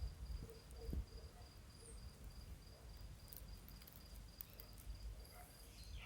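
Faint, steady chirping of a cricket: one high note pulsing evenly a few times a second, over a low rumble with a couple of soft thumps near the start.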